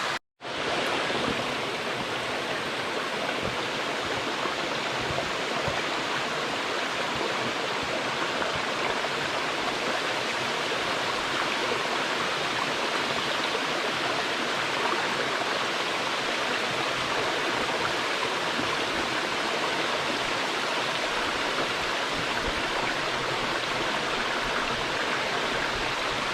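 Waterfall rushing steadily: a continuous, even roar of falling water that starts after a brief silent gap.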